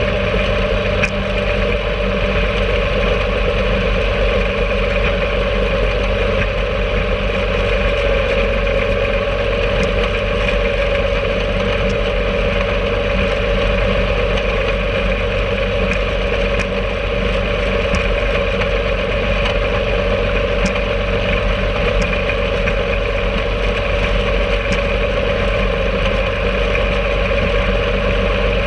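Engine of a home-made rail cart (DIY speeder) running steadily at a constant pitch, with a few faint clicks.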